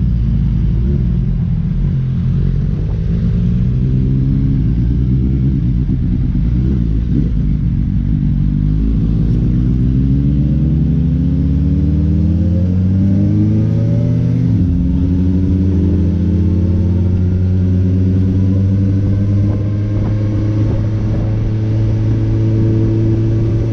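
Motorcycle engine running on the road, its pitch climbing as it speeds up, dropping briefly as it changes gear partway through, then holding at a steady pitch.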